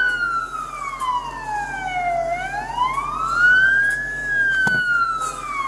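Police car siren on a slow wail: one tone falls, rises and falls again over several seconds. A single short knock comes near the end.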